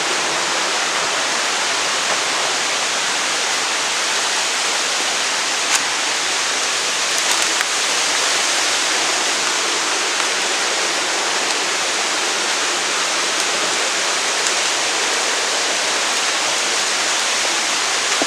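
Waterfall: falling water rushing in a steady, even hiss with no break.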